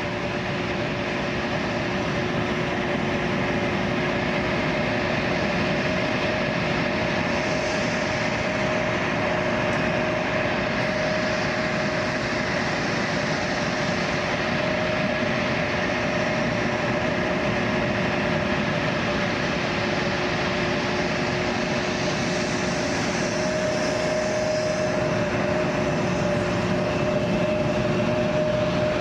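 Aircraft engines running steadily at idle: a constant drone with a fixed, unchanging whine.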